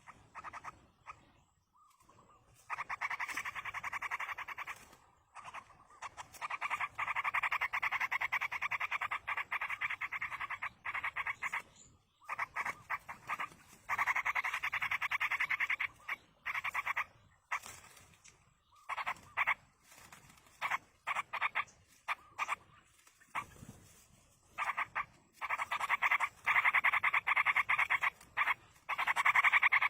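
Yellow-vented bulbul nestlings begging to be fed: bursts of rapid, rattling calls, each a few seconds long, repeated several times with short pauses between.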